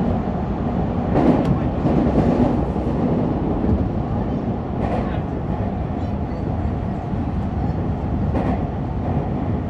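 Subway train running through a tunnel, heard from inside the car: a steady rumble of wheels on rail with a few sharp clacks, two close together about a second in and single ones around five and eight seconds in.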